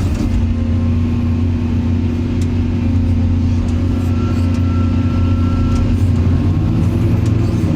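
Excavator's diesel engine running steadily with a low drone, a faint thin whine coming in for a couple of seconds in the middle.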